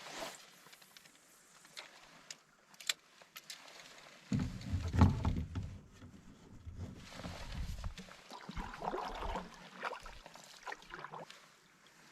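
Canoe under way while trolling: small knocks and clicks against the hull and water sounds of paddling, with a low rumble lasting about four seconds from a little over four seconds in.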